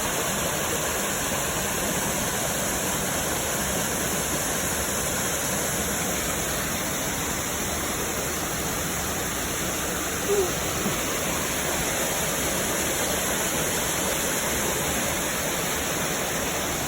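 Waterfall and fast-flowing creek rushing steadily, running high and fast after heavy rain.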